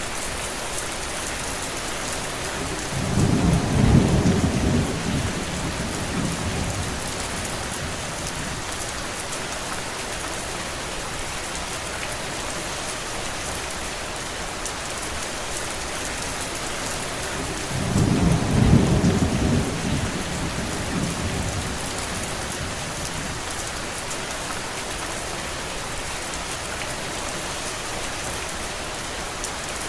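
Steady rain falling, with two low rumbles of thunder, each lasting a few seconds: one about three seconds in and another about eighteen seconds in.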